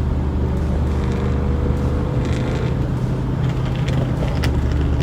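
Steady low engine drone heard from inside a moving truck's cab. Over it, another car's engine note rises slightly for the first few seconds: a Mazda RX-8 that sounds like it has an LS V8 swap.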